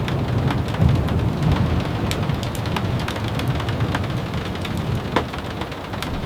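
Steady rain over a low, continuous rumble, with irregular sharp crackling pops from a wood fire in a fireplace; one pop about five seconds in stands out.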